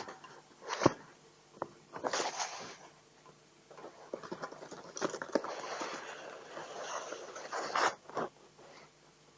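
Parrot making scratchy, rustling noises in irregular bursts, with a longer busy stretch from about four seconds in to about eight seconds.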